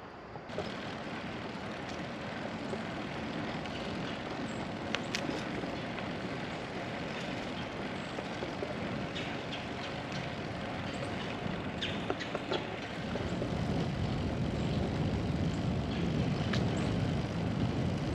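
Steady rushing noise of a bicycle ride, with wind on the microphone and tyres rolling on the trail. Scattered small clicks and rattles come through, and the low rumble grows louder about two-thirds of the way through.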